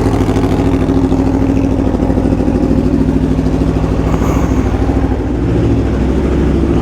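Aprilia Tuono V4 motorcycle's V4 engine running at a steady speed, with a slight dip about five seconds in.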